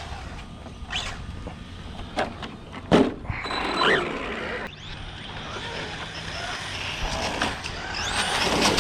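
Electric RC cars running fast on pavement: motor whine rising and falling as they accelerate and slow, over tyre noise, with a few sharp knocks about two to three seconds in.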